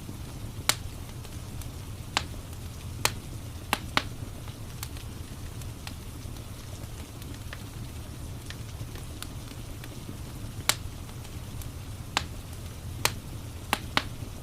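Wood fire crackling: sharp, irregular pops, about a dozen, over a steady low rumble.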